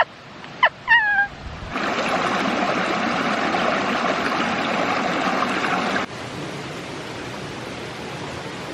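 Small waterfalls on a rocky stream, water rushing steadily: loud at first, then dropping suddenly to a quieter rush about six seconds in. Just before the water comes in, about a second in, there is a short falling cry.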